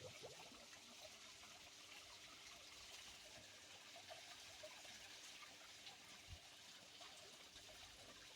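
Faint, steady trickling water with small scattered drips and splashes.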